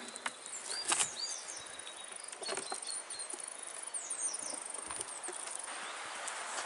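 Small birds chirping, with high-pitched chirps and trills, some falling in pitch, over a few scattered knocks. A steady rustling hiss sets in near the end.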